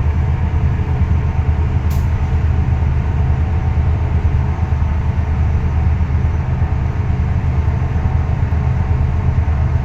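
Steady low drone of a ship's engine running, with a brief click about two seconds in.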